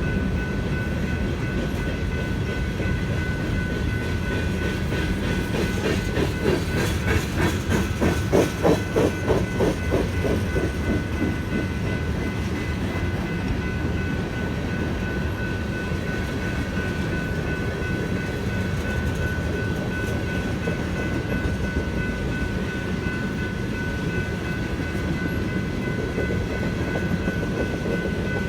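Freight train cars rolling past a grade crossing, wheels rumbling on the rails, with a burst of rapid clickety-clack about a quarter of the way in. A General Signals Type 3 electronic crossing bell rings steadily over it.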